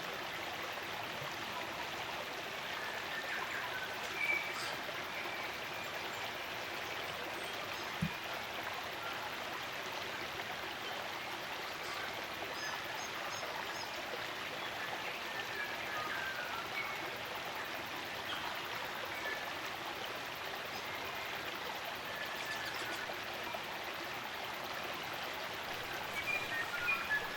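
Spring-fed stream running steadily, with scattered short chirps from forest birds and a bigger flurry of calls near the end.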